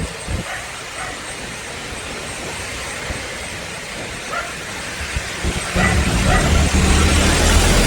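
A dog barking over steady wind and road noise from the moving bike. About six seconds in, the low hum of a motor vehicle engine comes in close by and grows louder.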